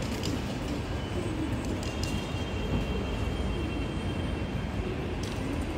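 Steady low rumble of wind buffeting the microphone over general city street noise.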